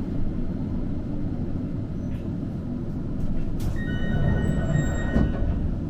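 Kagoshima City tram running, heard from inside the car: a steady low rumble of the wheels on the rails with a few sharp clicks. Near the end a thin, steady high-pitched ringing rings for about a second and a half.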